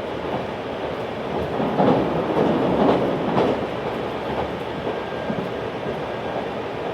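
Running noise inside a JR 383 series pendulum-tilting limited express train: a steady rumble of wheels on rail that swells for about two seconds near the middle.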